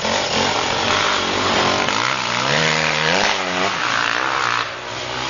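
Enduro dirt bike engine revving hard on a muddy forest track; its pitch climbs for about a second, about halfway through, then drops again.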